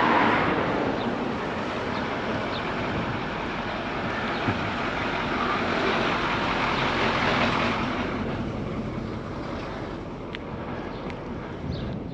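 Wind rushing over the microphone and tyre noise from a bicycle in motion, swelling around the middle and easing near the end.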